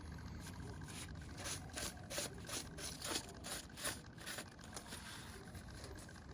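Aluminium cylinder head rubbed back and forth over 120-grit sandpaper laid on a flat tile, a rhythmic scraping of about two to three strokes a second, strongest in the middle and easing off near the end.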